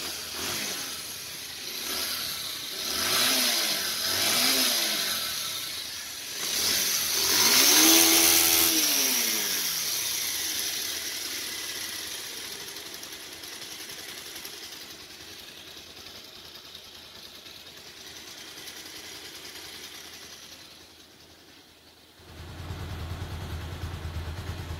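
Freshly rebuilt Bajaj Pulsar 150 single-cylinder four-stroke engine running. It is blipped a few times, revved up hard about 8 seconds in, then settles back to a steady idle. The mechanic calls its sound flawless after the rebuild.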